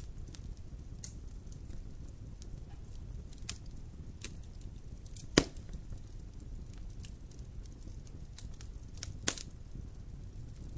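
Wood fire burning in a fireplace: a low steady rumble with scattered crackles, and two sharp pops of the burning wood, about five seconds in and again about nine seconds in, the first the louder.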